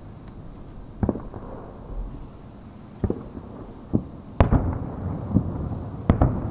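Aerial firework shells bursting: about six sharp booms at uneven intervals, the loudest about four and a half seconds in, each followed by a rumbling tail.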